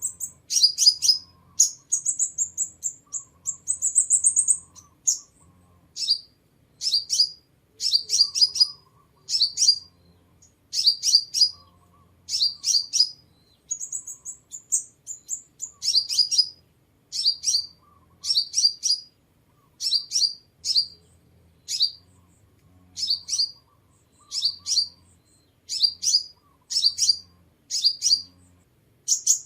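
Sunbird song: short, high, thin chirping phrases repeated about once a second, broken twice by a longer rising trill.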